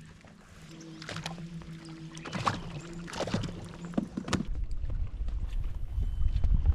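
Sounds of a kayak on the water: a steady low hum with clicks and knocks of gear against the hull, then low rumbling water and wind noise building from about halfway as the kayak gets moving.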